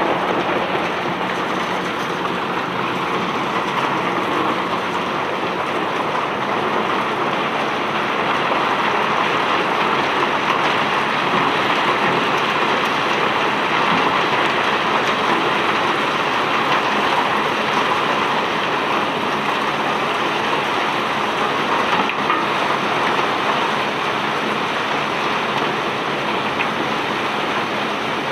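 Cobblestones pouring off a barge in a continuous, steady rushing rattle of many small stone-on-stone impacts, swelling a little in the middle.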